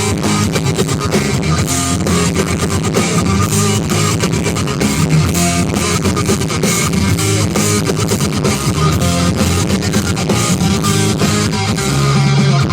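Live rock band playing an instrumental passage: electric guitar with drums, loud and continuous, with no singing.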